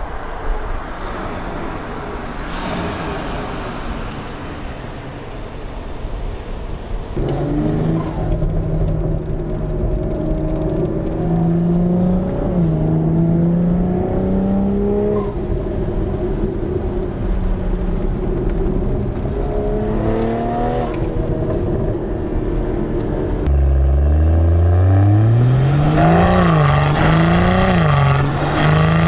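BMW M340i's turbocharged straight-six running through a Fi Exhaust full exhaust while driving. At first there is mostly road noise. From about seven seconds in the engine note holds steady, with small pitch changes. About 23 seconds in it gets louder and the pitch rises under hard acceleration, then swings up and down near the end.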